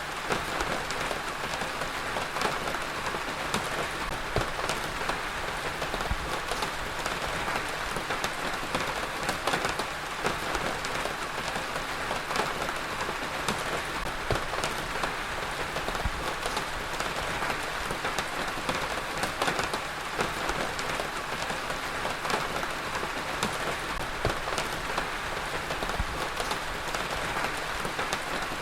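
Heavy rain falling steadily, a dense hiss with many distinct drops pattering on a surface.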